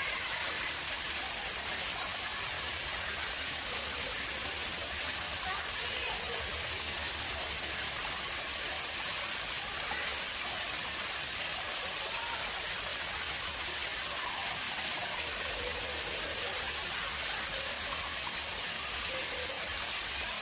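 Water flowing steadily into an artificial pond, an even splashing rush with no breaks.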